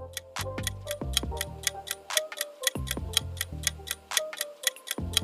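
Clock-ticking countdown sound effect, fast and even, over light background music with a pulsing bass line.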